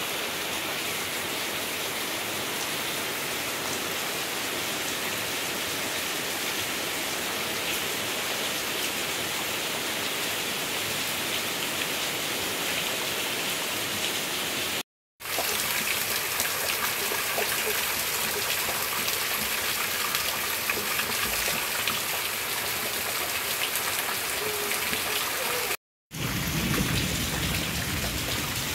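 Heavy rain pouring steadily at night, with rainwater streaming and dripping off roof eaves. The sound cuts out briefly twice, and in the last few seconds a low rumble of thunder comes in under the rain.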